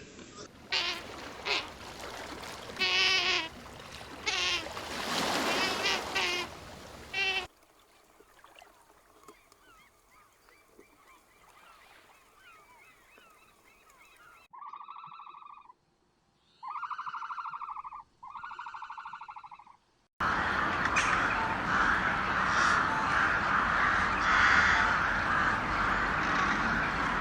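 A run of spliced animal-sound clips, mostly bird calls: pitched honking calls at first, a faint stretch of small chirps, then three separate evenly pitched calls, and a loud noisy stretch of calls near the end.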